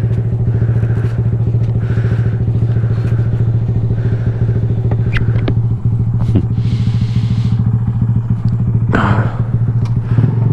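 Honda Grom's small single-cylinder engine running at a steady, unchanging pitch. There is a short hiss about seven seconds in and a knock about nine seconds in.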